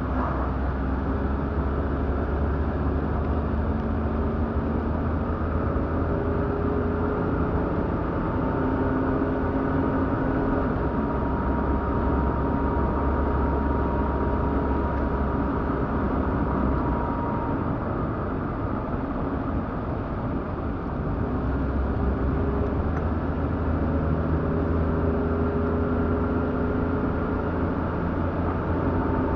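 Car driving along: a steady low rumble of engine and road noise, with engine tones that rise and fall slowly as the speed changes.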